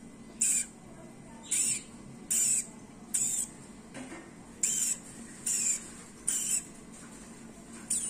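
A small bird calling from its hanging nest, a short high-pitched note repeated evenly, roughly once a second.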